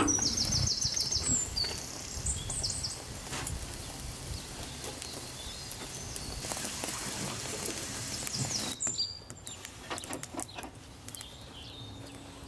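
Small birds chirping in quick runs of short high notes, mostly in the first second or two and again about nine seconds in, over a steady outdoor hiss with scattered clicks and knocks.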